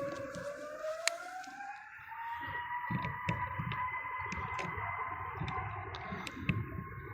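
Jet engines of an EasyJet Airbus A321neo (CFM LEAP-1A turbofans) spooling up to takeoff thrust at the start of the takeoff roll: a whine rises in pitch over the first two or three seconds, then holds steady over a low rumble.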